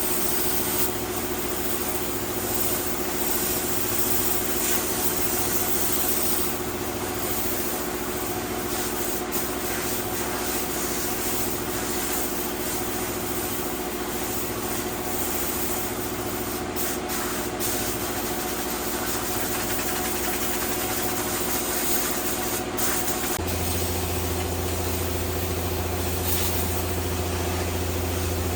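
An engine idling steadily, with a deeper, stronger hum coming in about 23 seconds in.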